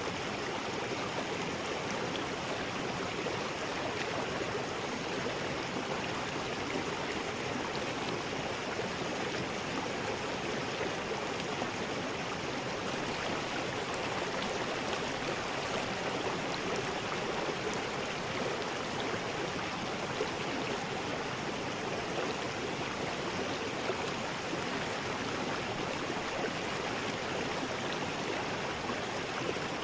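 River rapids: water rushing steadily over rocks, an even, unbroken roar of flowing water.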